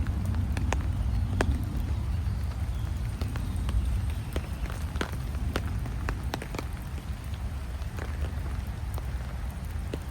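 Rain falling as scattered drops that tick irregularly, over a steady low rumble.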